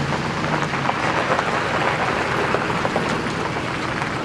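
A vehicle on the move, with a steady rushing noise of tyres and wind.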